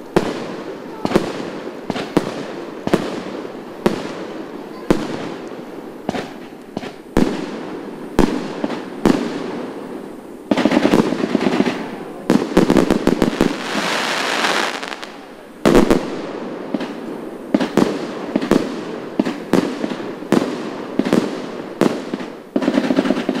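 Fireworks display: aerial shells bursting with sharp bangs about once a second. Around the middle comes a quick run of rapid bangs, followed by a couple of seconds of dense crackling hiss.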